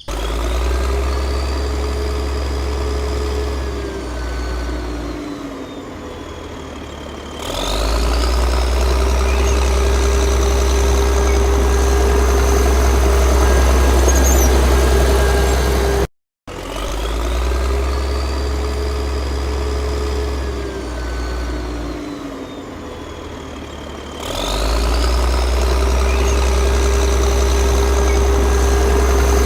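Engine running steadily with a strong low hum. About five seconds in its pitch slides down and it goes quieter, then it picks up again at about seven seconds. After a brief cut-out at about sixteen seconds the same stretch plays again, as a looped engine soundtrack would.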